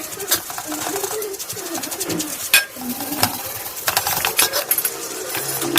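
Metal compressor parts clinking and tapping in irregular clicks as they are handled and cleaned.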